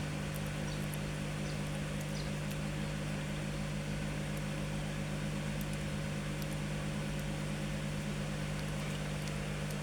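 Steady low mechanical hum with faint, scattered high clicks.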